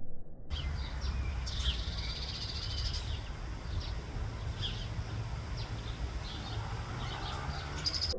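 Small birds chirping and twittering in short high calls, over a steady low background rumble.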